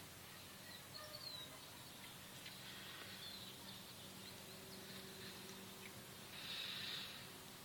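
Faint background noise with a few faint, high bird chirps, and a soft hiss a little before the end.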